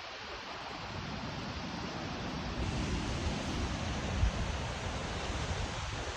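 Steady rush of water from the Geg waterfall, with wind buffeting the microphone in uneven low rumbles and one brief bump about four seconds in.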